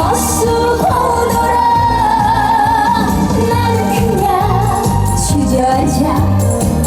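Female singer's voice carrying a trot melody with vibrato over a recorded backing track with a steady beat.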